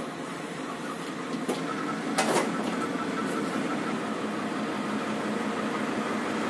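Steady mechanical hum of a stationary diesel passenger train, with a short hiss about two seconds in.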